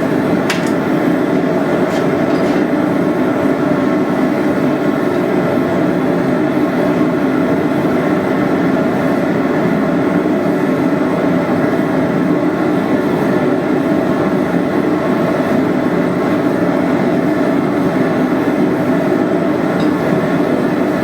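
A forge running with a steady, unbroken roar, with no hammer blows.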